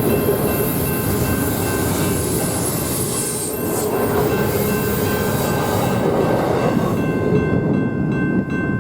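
A train rolling by: the rumble of the railcars, with steady high-pitched wheel squeal running over it. The upper hiss fades off near the end while the squeal tones continue.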